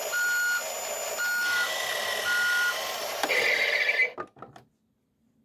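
Road Rippers toy tow truck's built-in speaker playing a reversing-alarm sound effect: a steady beep about once a second over a recorded truck-engine noise. The effect ends with a short burst and cuts off about four seconds in.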